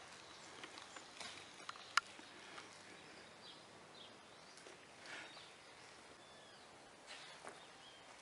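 Faint birds chirping now and then over low background noise, with one sharp click about two seconds in.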